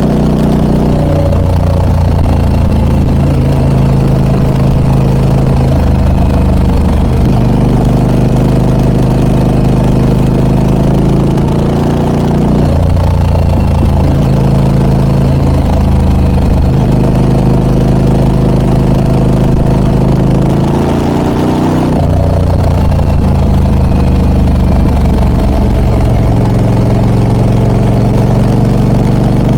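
Harley-Davidson Pan America 1250 Special's V-twin running through a Scorpion aftermarket exhaust while being ridden. The engine note rises and falls with the revs, with several shifts in pitch, including a rising glide a little after twenty seconds.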